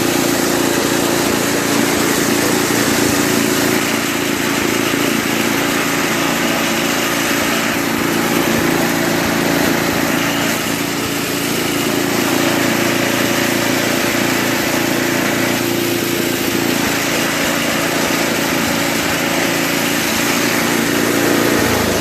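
Toro 521 two-stage snowblower's Tecumseh engine running steadily.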